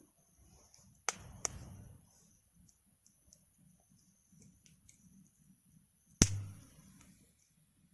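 Wood fire crackling in a Picogrill 398 fire stand: a few sharp pops, two close together about a second in, and a louder crack with a brief low thump near the end.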